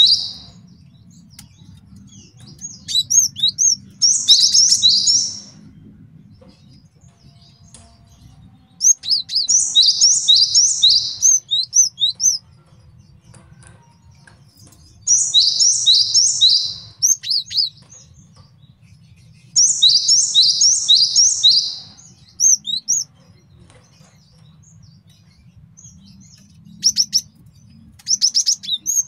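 Male cinereous tit singing: bouts of rapidly repeated high, clear notes, each bout lasting two to three seconds, recurring about five times with short pauses between them. A faint low hum runs underneath.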